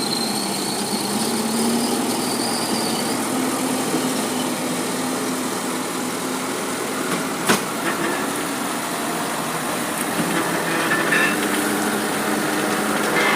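A truck engine running steadily, with one sharp knock about halfway through.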